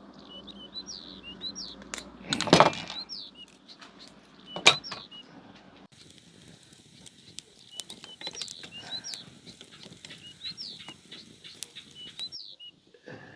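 Small birds chirping over and over in short high notes. Two loud thuds cut through, the louder a couple of seconds in and another about two seconds later.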